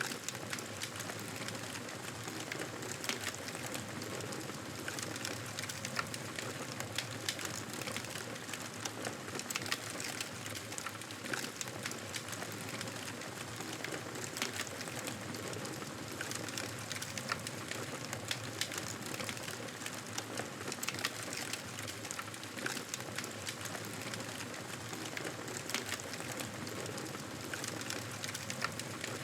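Campfire crackling: a steady hiss with many small, irregular pops and snaps.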